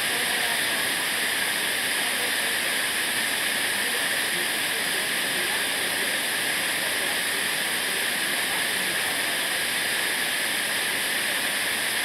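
Waterfall rushing: a steady, even hiss of falling water, mostly high-pitched, with no change in level.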